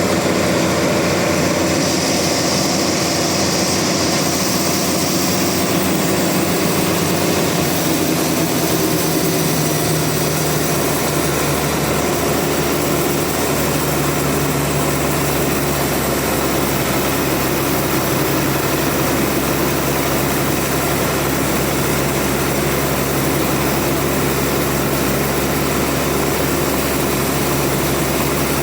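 A sawmill running steadily under power, its engine note shifting lower and fuller about ten seconds in.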